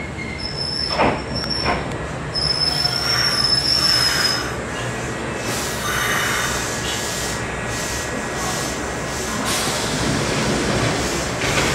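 Electric train moving along the station, its wheels squealing in a high steady whine through the first few seconds, broken once, over the running rumble, with two sharp knocks about a second in.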